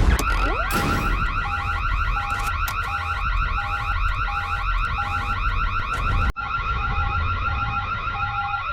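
Electronic alarm sound effect: a fast, repeating warbling tone with a separate beep sounding about every two-thirds of a second, over a deep rumble. It briefly cuts out about six seconds in, then carries on.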